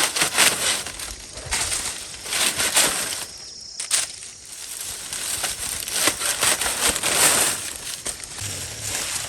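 Irregular crunching and crackling of dry material, in dense runs of short clicks.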